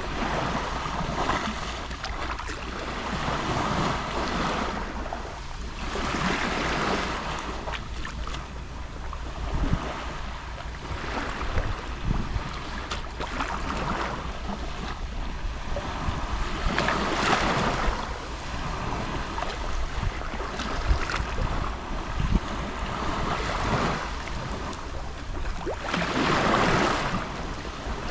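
Gentle sea waves lapping on the shore, the wash swelling and fading about every three seconds.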